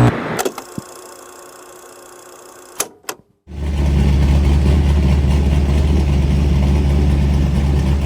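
1997 Camaro SS's LT1 V8 idling with a loud, deep exhaust note, coming in suddenly about three and a half seconds in after a quiet stretch with two short clicks.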